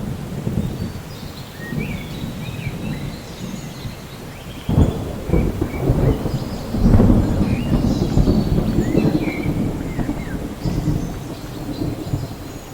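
Thunder rumbling over steady rain, with a sudden crack about five seconds in and the loudest rumble a couple of seconds later. Birds chirp in short high calls throughout.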